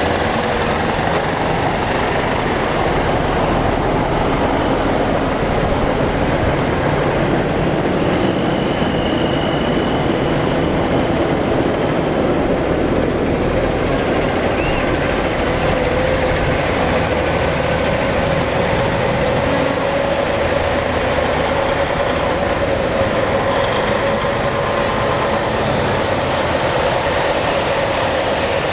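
Heavy diesel trucks running as they roll past slowly in a parade line: a loud, steady, continuous drone. A held tone comes in about halfway through and rises slightly.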